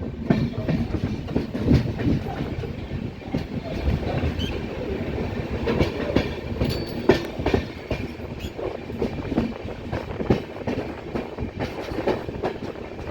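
Passenger train running, its wheels clattering over the rails with frequent irregular knocks and rattles over a steady rumble.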